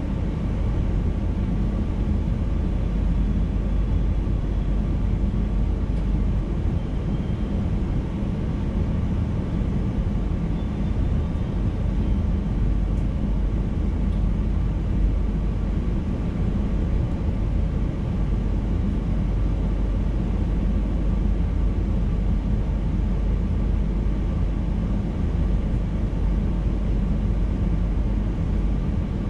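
Steady running noise of a VIRM double-deck electric intercity train heard from inside the driver's cab, an even rumble of wheels on track.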